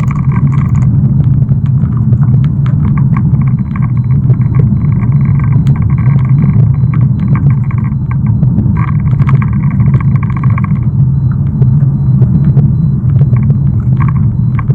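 Car heard from inside the cabin as a loud, steady low rumble, with a fainter higher hum that drops out and returns several times.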